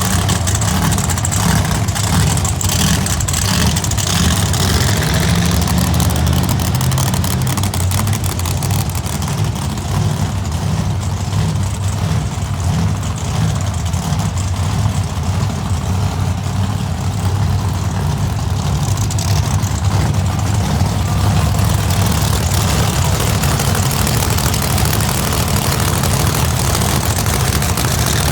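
Monster truck engine running steadily, a low, even rumble with no clear revs or stops.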